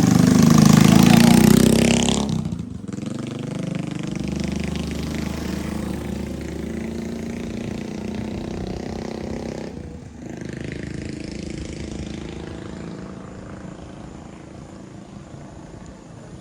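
Motor scooter passing close by, loud for the first two seconds or so, then its engine note falling and fading as it moves off.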